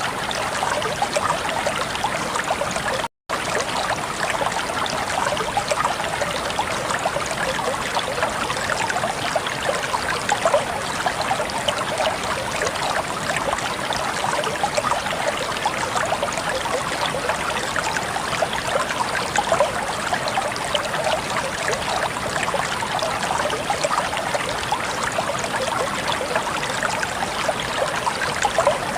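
Flowing water, steady and splashy like a shallow stream or brook, broken by a brief dead-silent gap about three seconds in.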